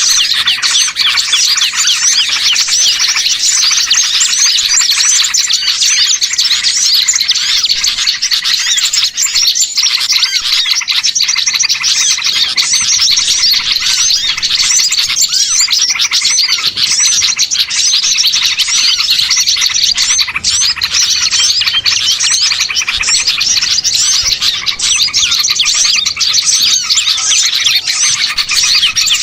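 A dense chorus of many small songbirds chirping and twittering over one another: a continuous, busy, high-pitched mix of rapid calls. It is a bird-trapping lure recording of agitated small birds, made to draw others in.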